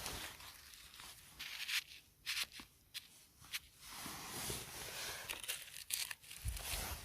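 Dry tearing and crackling rustle, broken by several sharp snaps about a third of the way in and again near the end.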